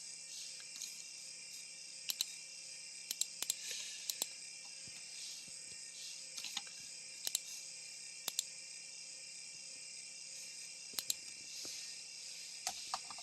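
Scattered sharp clicks, often in pairs a fraction of a second apart, from a laptop's keys or buttons being pressed, over a steady faint high hiss.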